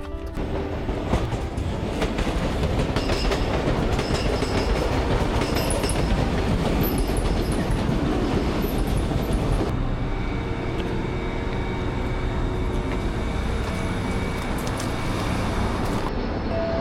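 A train running past on the rails: a loud rumble and rattle of wheels, with short high squeals in the first half. About ten seconds in the sound changes abruptly to a steadier run with a faint hum.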